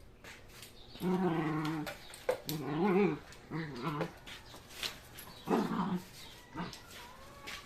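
Dogs growling and whining in play, a series of short wavering growls: a longer one about a second in, then several shorter ones.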